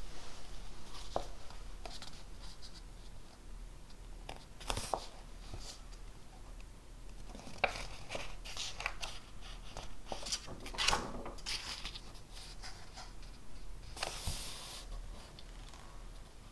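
Writing on paper: short, scratchy strokes in irregular bursts, with pauses between them, over a low steady hum.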